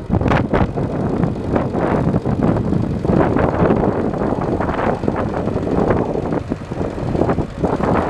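Powertrac 4455 tractor's 55 hp four-cylinder diesel engine running steadily.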